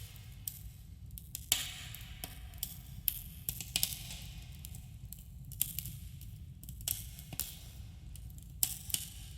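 Campfire crackling, with irregular sharp pops over a steady low rumble and a subtle cave echo.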